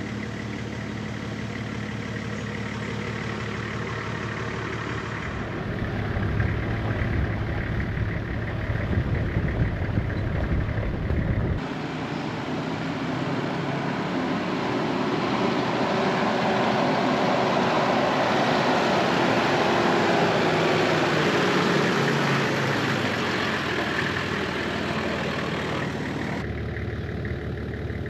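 Nissan GU Patrol four-wheel drive running on the road, its engine a steady low hum. The sound changes abruptly three times where separate driving clips are cut together. In the longest stretch a broader rushing noise swells and then fades.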